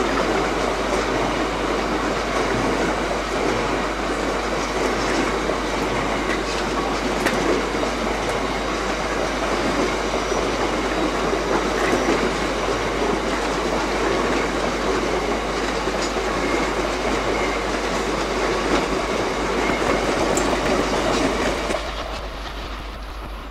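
A train running along the tracks, wheels clattering over rail joints in a steady, loud rumble that drops away sharply near the end.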